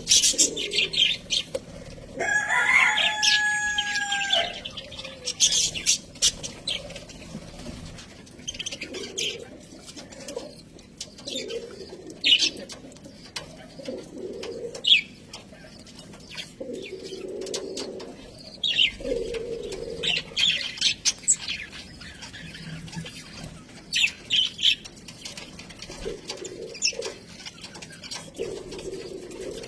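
Budgerigars chirping and chattering in many short, sharp calls, with one longer whistled call a few seconds in and soft low calls repeating throughout.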